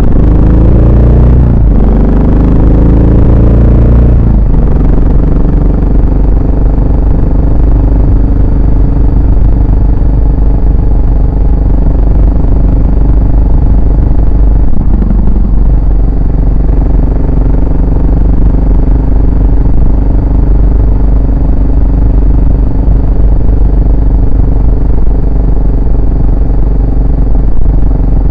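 Yamaha SR400 single-cylinder four-stroke engine and exhaust under way. It pulls up through the revs in steps over the first few seconds, then cruises at a steady engine speed, with a brief dip in revs about halfway through.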